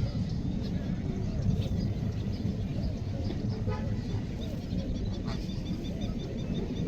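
Steady low rumbling noise with a few faint high bird calls over it.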